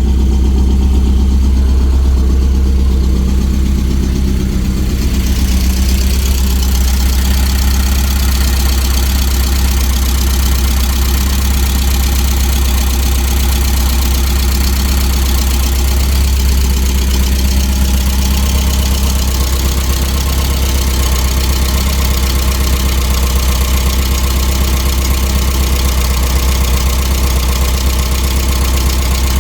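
1988 Porsche 944 race car's four-cylinder engine idling steadily just after its first start in months, with a higher hiss coming in about five seconds in.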